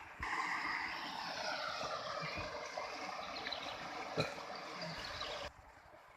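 A vehicle engine going past, its pitch falling slowly, with a sharp knock about four seconds in. It starts and stops abruptly.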